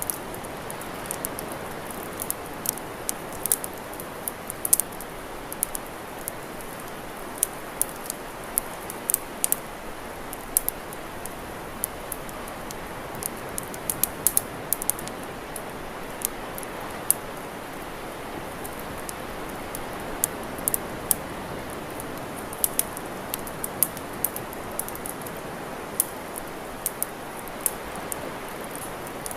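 Wood campfire crackling: sharp, irregular pops and snaps over a steady rushing hiss.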